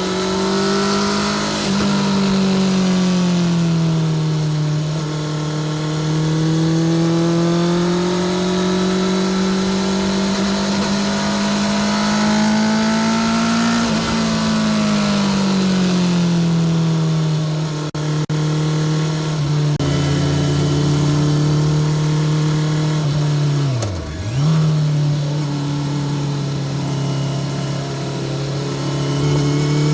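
Honda CBR650R's inline-four engine running through a Spark full titanium short exhaust while riding at steady revs, the note rising and falling gently with the throttle. Late on, the pitch drops sharply and picks straight back up within about a second.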